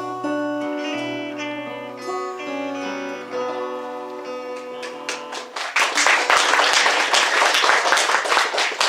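Acoustic guitar playing the closing notes of a song, the last notes ringing out; from about halfway through, an audience applauds.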